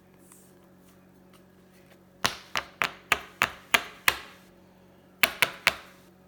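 A run of sharp knocks on a hard surface: seven about a third of a second apart, then a short pause and three more in quick succession.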